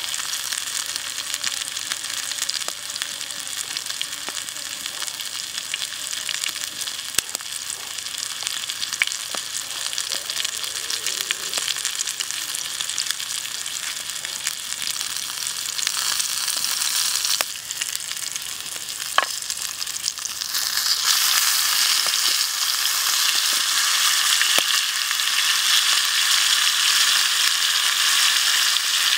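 Chicken wings deep-frying in hot oil in a shallow pan: a steady sizzling hiss with scattered pops, growing louder about three-quarters of the way through.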